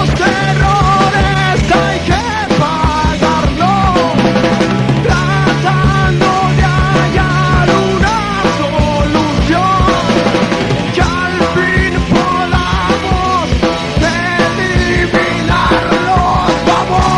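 Heavy rock band playing live: drums, bass and electric guitars, with a sung lead vocal line over them.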